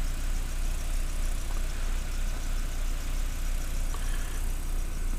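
An engine running steadily at idle, with an even low hum that does not change.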